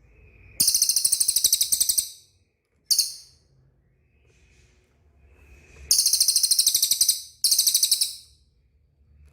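A cililin bird singing in very high, fast rattling trills: a long trill lasting about a second and a half, a short one, then two more about a second long each near the end.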